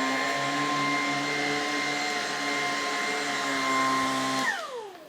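Lupe Pure cordless stick vacuum running at its default setting on thick-pile carpet: a steady motor whine over the rush of suction. About four and a half seconds in it is switched off, and the whine falls in pitch as the motor spins down.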